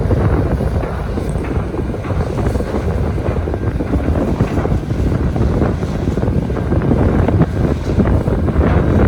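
Strong wind buffeting the microphone on a ship's deck: a dense, low rushing noise that rises and falls unevenly with the gusts.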